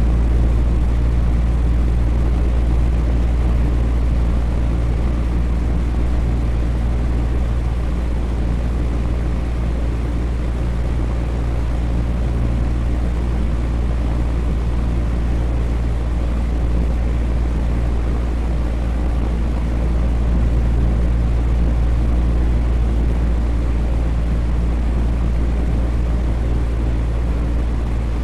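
Electric fan running steadily: an even rushing of air with a deep low hum and no change in speed.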